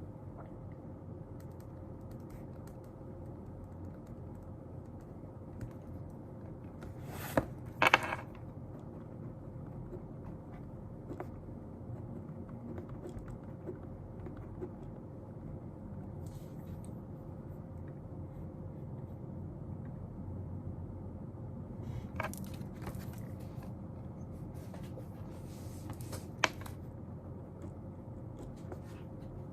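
Steady low room hum with a faint steady tone, broken by occasional desk handling sounds while studying. There are two sharp knocks about a quarter of the way in, scraping and rustling later, and one more sharp tap near the end.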